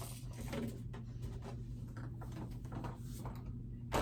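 Faint rustling and light taps of toys being handled and moved about, over a steady low hum, with a slightly louder knock at the very end.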